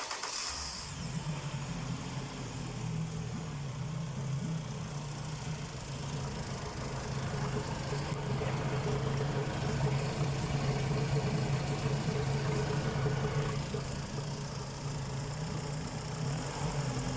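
Yamaha F80BET four-stroke, four-cylinder outboard motor running steadily at idle.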